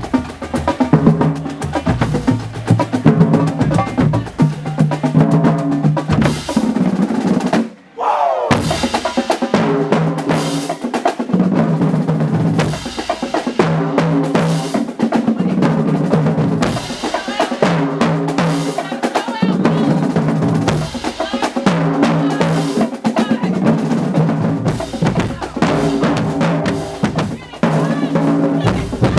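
Marching band drumline playing a loud, fast cadence of snare and bass drums with rimshots and rolls. The sound cuts out briefly about eight seconds in.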